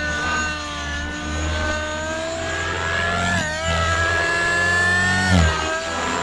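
A 50-class glow (nitro) engine of a 550-size RC helicopter is running under flight load through a tuned-pipe muffler, together with the whirring of its rotors. The pitch wavers and rises and falls as the helicopter manoeuvres and swoops past, with the sharpest, loudest swoop near the end.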